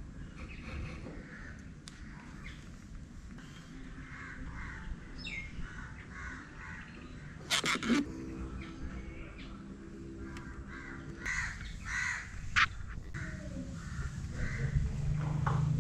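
Birds calling repeatedly in the background, with a few sharp clicks and knocks from handling. A steady low hum runs for about three seconds near the middle.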